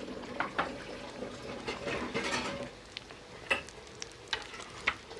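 Breaded potato-chicken tikkis shallow-frying in hot oil: a steady sizzle with a string of sharp pops and crackles, busiest about two seconds in.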